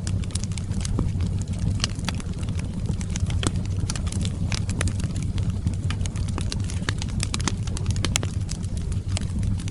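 Wood fire crackling and popping in a fireplace, with many irregular sharp snaps over a steady low rumble of burning.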